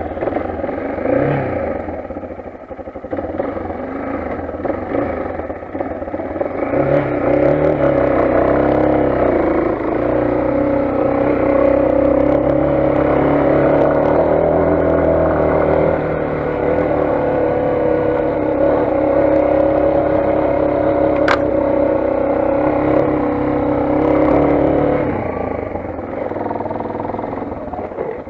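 Single-cylinder engine of a Motoland XR 250 enduro motorcycle running under way. The revs climb between about 7 and 9 seconds in, hold steady, and ease off near the end, with one sharp click a little past the middle.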